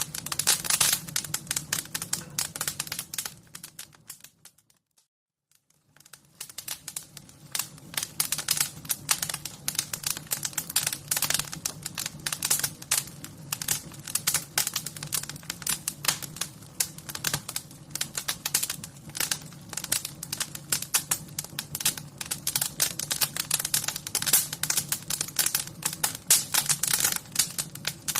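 Wood fire crackling: dense, irregular pops and snaps over a low steady rumble. About four seconds in the sound fades to near silence for roughly two seconds, then fades back in.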